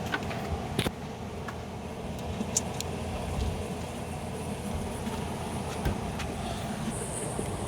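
A few sharp clicks and knocks of metal parts being handled, over a steady low rumble.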